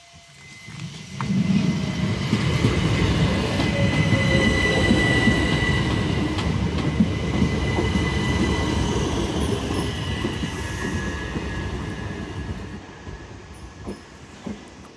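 Southeastern Class 375 electric multiple unit passing over the level crossing: the rumble of its wheels on the rails with a high steady wheel squeal, building about a second in and fading away near the end.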